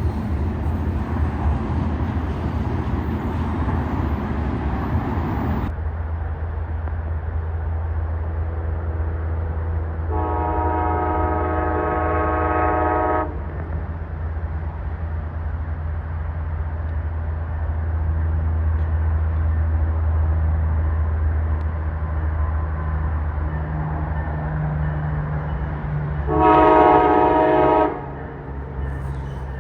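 Diesel locomotive horn sounding two chord blasts over the steady low rumble of the train: one about three seconds long, about ten seconds in, and a shorter, louder one near the end. Train rolling noise is heard at the start and cuts off abruptly about six seconds in.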